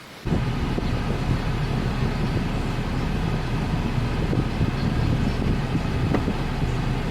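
Car driving, with steady engine and road noise heard from inside the cabin. It starts abruptly just after the beginning.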